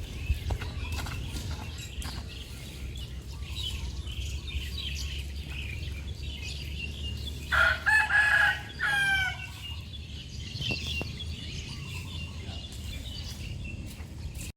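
A rooster crowing once, about halfway through: one long call that ends in a falling sweep. Softer scattered calls of fowl and a low steady rumble lie underneath.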